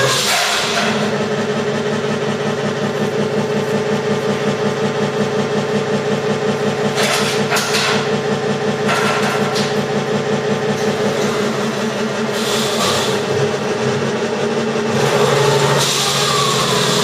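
Electronic engine sound generator in a 1/6-scale Tiger tank model playing a simulated tank engine, idling with a steady throb. Near the start and again near the end a whine rises and falls in pitch over the engine sound.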